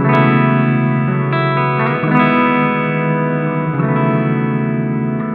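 Electric guitar chords strummed through a compact multi-effects pedal's reverb, with the shimmer switched off so it is a plain reverb. Each chord rings on with a reverb tail, and a new chord is strummed every second or two.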